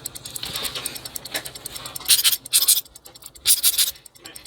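Small mechanical clicking and ratcheting from a watch mechanism, with two louder rasping bursts about two and three and a half seconds in.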